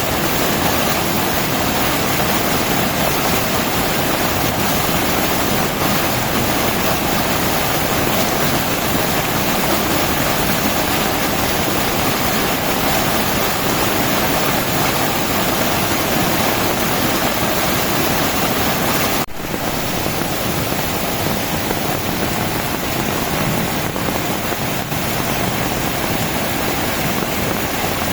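Heavy rain falling steadily, a dense, even hiss. It breaks off for an instant about two-thirds of the way through and resumes slightly quieter.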